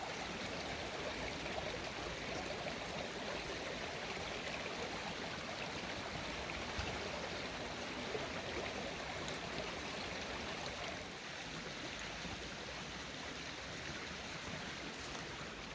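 Stream running high after heavy rain, a steady rush of flowing water.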